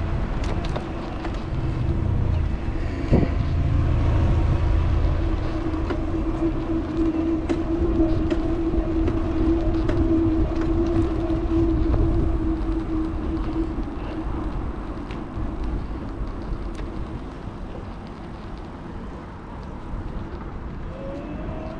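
Wind rumble on an action camera's microphone and road noise while riding an electric bike, with a steady mid-pitched whine that swells from about four seconds in and fades out by about fourteen seconds.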